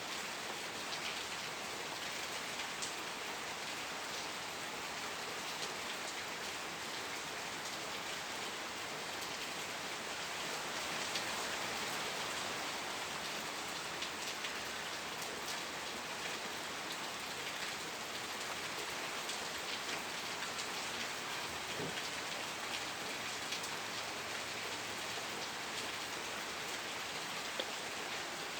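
Steady rain falling, with a continuous hiss and scattered individual drops ticking on a surface.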